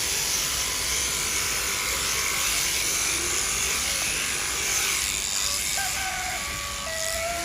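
Large electric sheep-shearing clippers running steadily, buzzing as they cut through the fleece. A few faint held tones come in near the end.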